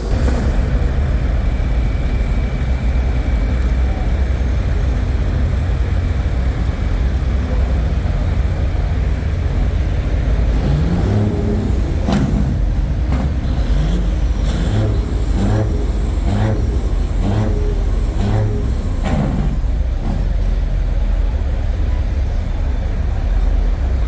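Diesel semi truck engine idling, a steady low rumble, with short wavering sounds and a few clicks over it in the middle stretch.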